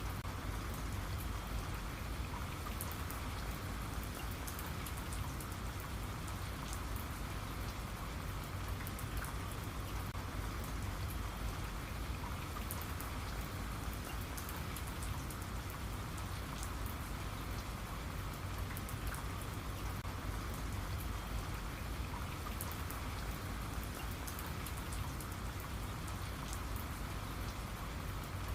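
Steady rain falling, with many small drops ticking on a surface over a continuous hiss and a low rumble.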